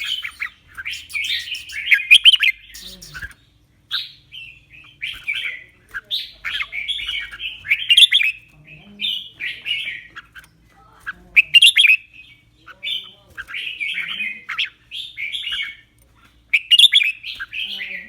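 Red-whiskered bulbul singing: short, bright warbled phrases one after another, separated by brief pauses.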